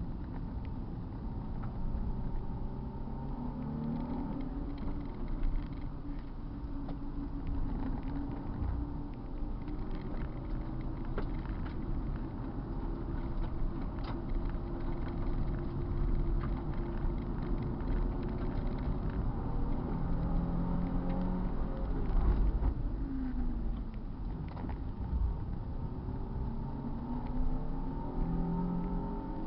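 Car engine under way, its pitch rising and falling several times as it speeds up and slows, over a steady low rumble.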